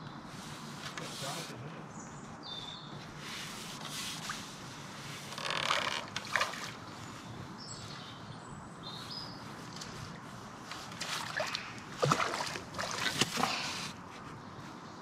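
Splashing water in bursts, a few about halfway and a louder cluster near the end, as a hooked large perch thrashes at the surface while being played in.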